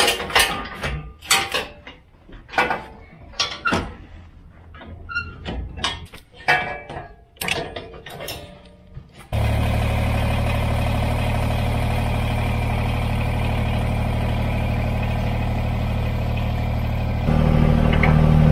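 Scattered metal clanks and knocks for about nine seconds, then a Kubota BX compact tractor's diesel engine running steadily, which steps up louder shortly before the end.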